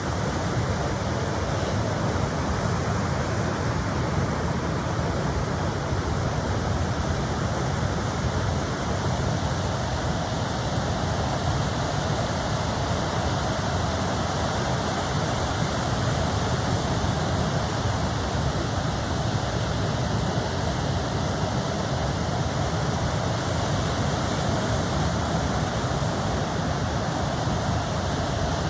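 Ocean surf, a steady even roar with no single wave break standing out.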